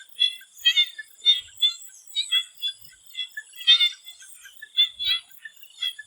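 Swamp frogs calling in chorus: short, sharp croaks, several a second, overlapping irregularly, with a louder cluster about four seconds in. A faint steady high-pitched whine runs behind them.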